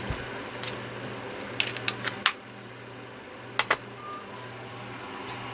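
A few scattered sharp clicks and taps, some in quick succession, over a steady low hum. A brief faint tone comes in about four seconds in.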